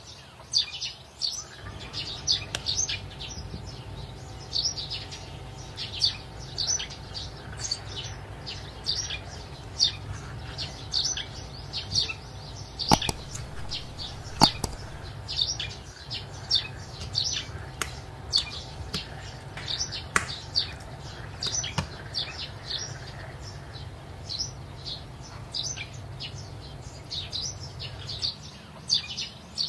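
Small birds chirping rapidly and continuously, short high falling chirps several times a second, over a steady low hum. About halfway through come two sharp clicks a second and a half apart, the loudest sounds.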